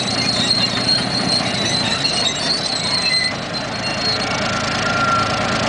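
Crawler tractor running under load, its engine rumbling and its steel tracks giving a thin, high metallic squeal that fades out about three to four seconds in.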